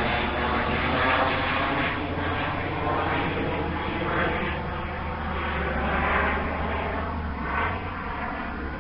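Steady engine drone with a low hum, fading slowly.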